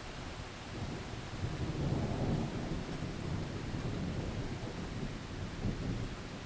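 Rolling thunder rumbling over steady rain, swelling about a second in, loudest around two seconds, then fading slowly.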